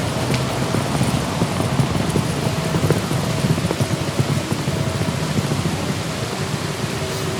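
Steady noise of a car in motion, a low rumble of road and engine with a faint hum that fades in and out.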